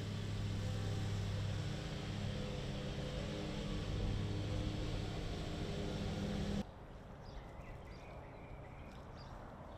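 Steady car road and engine noise from inside a moving vehicle, with a low hum. About two-thirds of the way through it cuts off sharply to a much quieter outdoor background with faint, short high chirps.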